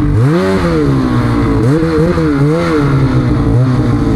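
Snowmobile engine revving under throttle: the pitch climbs about half a second in, then rises and falls repeatedly as the throttle is worked.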